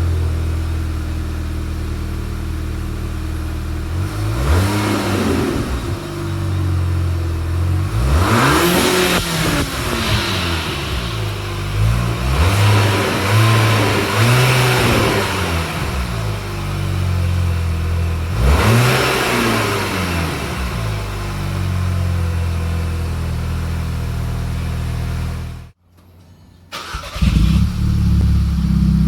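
Audi A3's turbocharged 2.0T four-cylinder idling and being free-revved five times, each rev rising and falling back to idle. Near the end the sound cuts out for about a second, then comes back louder at idle.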